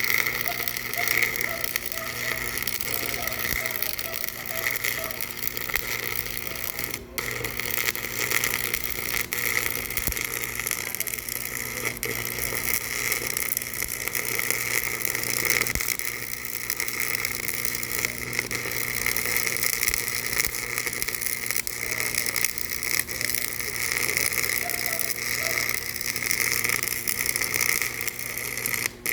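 Machinery running steadily with a continuous fast mechanical clatter and an underlying hum.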